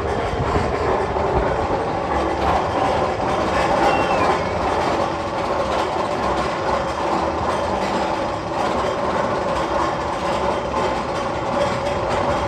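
Steady rumble and clatter of a train running on rails, with a faint short falling whistle-like tone about four seconds in.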